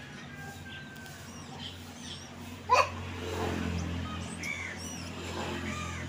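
Small birds chirping: a few short calls, the loudest about three seconds in, over a faint low hum.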